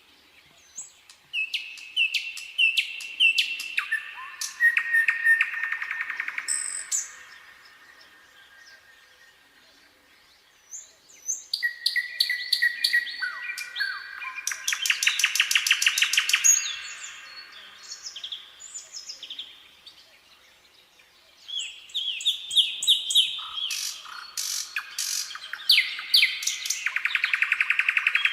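Nightingale singing: three song phrases a few seconds apart, each a run of repeated whistled notes leading into a fast rattling trill.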